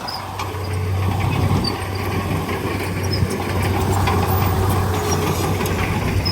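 Diesel engine of a Komatsu D31P crawler bulldozer running steadily under load, with light metallic clatter from its tracks.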